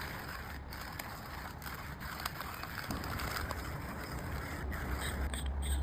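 Coffee beans being crushed in a HiBREW G4B burr grinder: a steady gritty crunching with many small cracks. A low steady hum comes in near the end.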